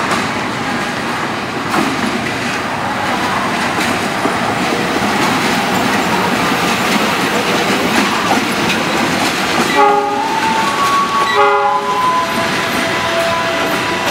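Diesel-electric locomotive-hauled train running through the station, with steady engine and wheel noise on the rails. About ten seconds in, the locomotive horn gives two short blasts a second and a half apart, followed by a thin high squeal.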